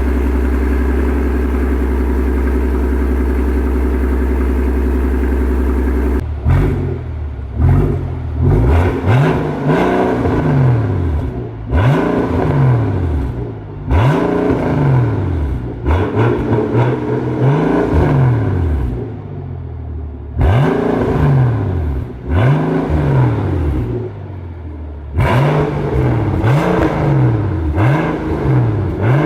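The Mercedes-Maybach S 650 BRABUS 900's twin-turbo V12 runs at a steady note for about six seconds. It is then revved over and over in short throttle blips, each one rising and falling in pitch, sometimes several in quick succession.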